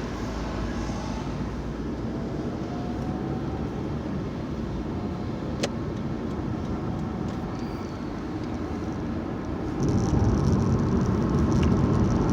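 Steady engine and tyre noise of a car being driven, heard from inside the cabin, growing louder about ten seconds in. A single sharp click about halfway through.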